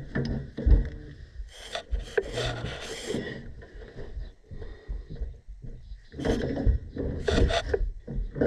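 Rubbing, scraping and irregular knocks of hands and tools against gas piping and fittings during work on a furnace gas valve, with two bursts of rasping noise, about two and about seven seconds in.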